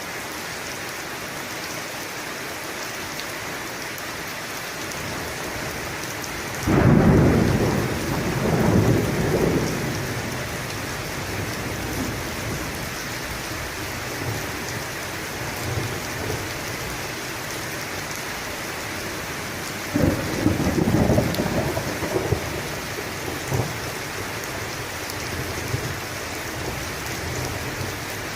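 Steady heavy rain falling, with two rolls of thunder: a sudden loud low rumble about a quarter of the way in that rolls on for a few seconds, and a second crackling rumble about two-thirds of the way through.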